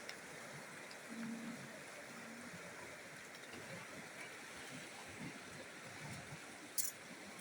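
Steady rush of river water. A voice hums briefly twice, about one and two seconds in, and a single sharp click comes near the end.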